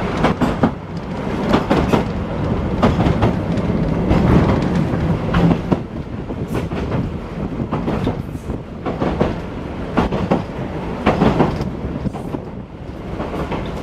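An ex-Melbourne W2 class electric tram running along the track: a steady rumble, with irregular clicks and knocks of the wheels over the rail joints.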